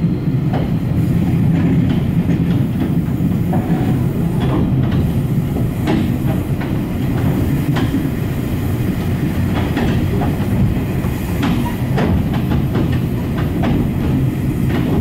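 Steady rumble of a moving passenger train heard from inside the carriage, with scattered clicks and knocks from the wheels running over the track.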